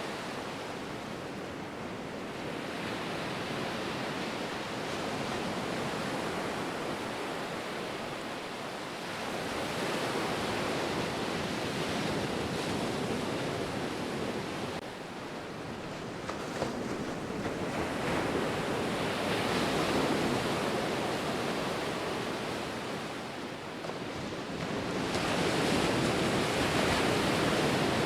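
Ocean surf: a continuous wash of breaking waves that swells and ebbs every several seconds.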